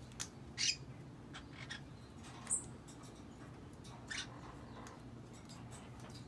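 Cockatiel giving a few short, high chirps and squawks, the loudest about half a second in and others near 2.5 and 4 seconds, with faint clicks between them.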